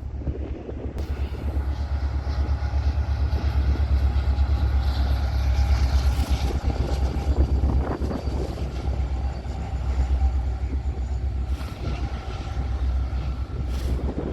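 Approaching freight train: the deep rumble of its diesel locomotives builds over the first few seconds, then holds steady and loud.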